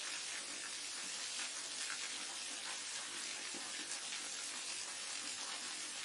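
Steady rushing hiss of water falling at a waterfall, even and unbroken.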